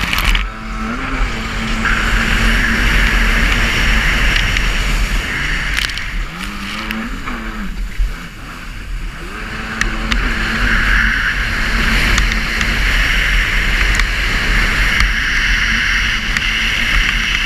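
Jet ski engine running at speed, its pitch rising and falling several times with the throttle. Over it runs a loud, steady rush of wind and spray, with wind rumbling on the microphone.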